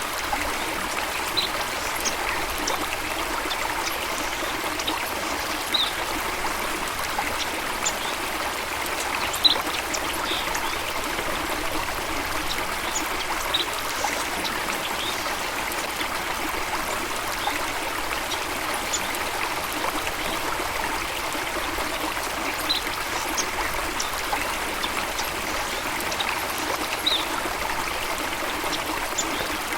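Running water of a stream or small waterfall, a steady splashing rush. Short high bird chirps come through it here and there.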